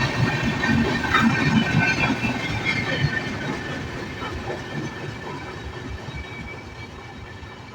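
Express train's coaches rolling along the track, wheels clattering over the rails with a faint high metallic whine. The sound fades steadily as the train moves away or slows.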